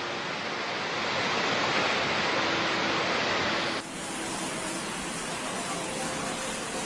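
Storm noise: a steady rushing hiss of heavy rain and running water. A little under four seconds in it cuts off abruptly into a quieter, duller rush.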